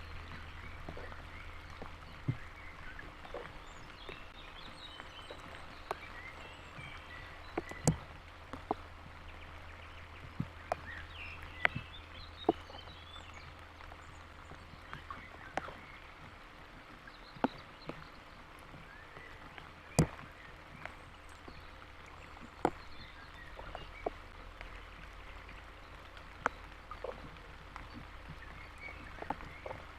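Scattered raindrops hitting the outdoor camera, heard as sharp, irregular single ticks over a low steady hum and faint small animal calls.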